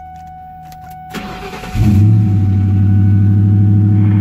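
A 2004 Ford Mustang GT's 4.6-litre V8 is started from inside the cabin: a few clicks, then the starter cranks about a second in. The engine catches just under two seconds in and settles into a loud, steady idle. It is the first start after an alternator replacement.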